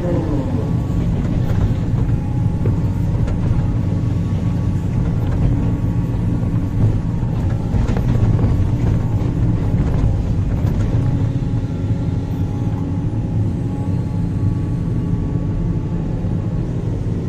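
Sumitomo 490 hydraulic excavator's diesel engine running steadily under work, with a thin hydraulic whine over it and a brief falling tone at the start.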